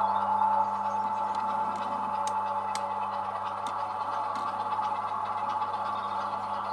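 Small electric motor of an OO gauge model locomotive running at a steady whine during shunting, with a few faint clicks from wheels and couplings on the track.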